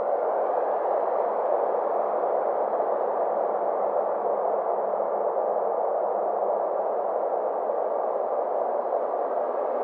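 Synthesized space ambience: a steady, muffled noise drone centred in the middle range, with faint tones slowly sweeping upward near the start and again near the end.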